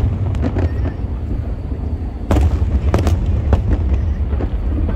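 Fireworks shells bursting in quick succession over a continuous low rumble, with the loudest bangs a little over two seconds in and about three seconds in.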